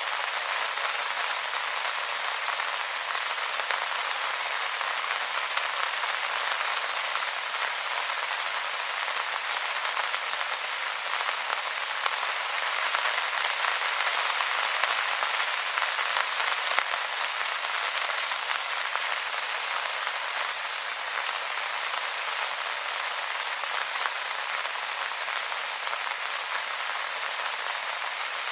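Steady rain falling on wet leaves: a dense, even patter with no single drops standing out.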